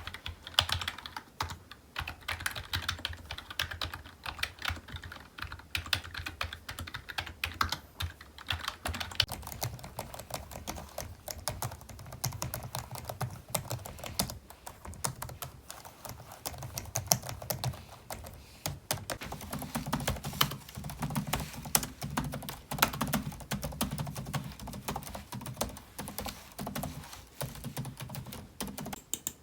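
Typing on a computer keyboard: a fast, irregular run of key clicks and clacks with no pauses longer than a moment.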